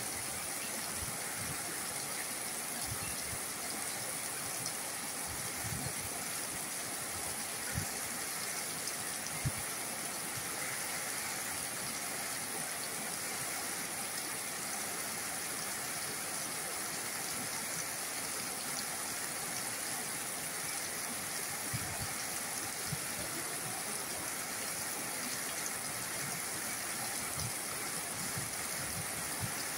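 Steady heavy tropical rain falling on dense garden foliage, an even hiss with a few soft low thumps scattered through it.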